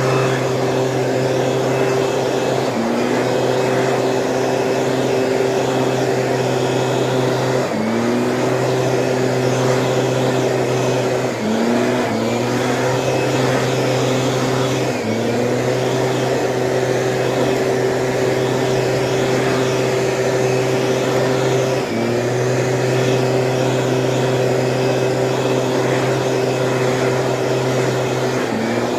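Small two-stroke engine of a Stihl power sprayer running steadily at high speed. Several times its pitch dips for a moment and climbs back up.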